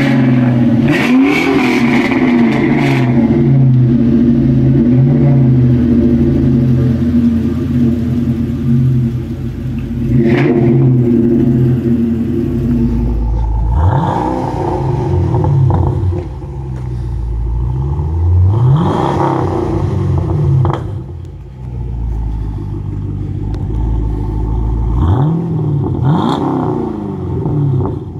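A car engine idling through a loud aftermarket exhaust, then revved in several short blips, each a quick rise and fall in pitch, starting about halfway through.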